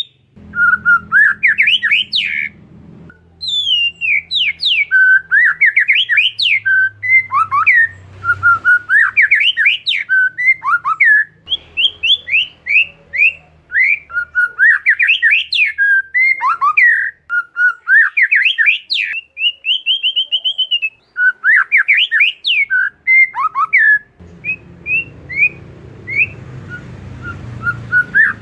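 Oriental magpie-robin (kacer) singing in long, fast phrases of sweeping whistled notes with scratchy chatter, broken by short pauses. A faint low hum sits underneath, more noticeable near the end.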